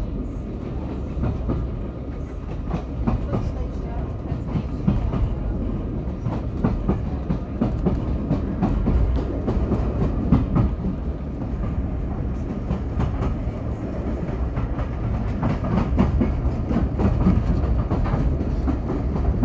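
Train running along the line, heard from inside the passenger coach: a steady low rumble of wheels on rail, broken by irregular clicks and knocks.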